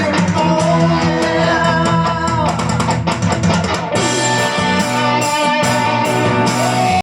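Rock band playing an instrumental outro, with electric guitar over bass and drum kit. It cuts off suddenly at the end.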